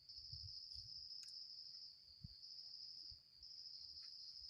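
Crickets chirping faintly in one continuous high trill, with a few soft low knocks.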